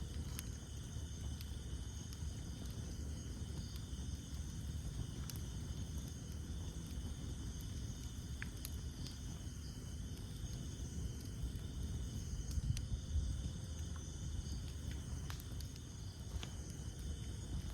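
Campfire burning, with a steady low rumble of flames and sparse sharp pops of crackling wood a few seconds apart. A steady chorus of night insects runs underneath.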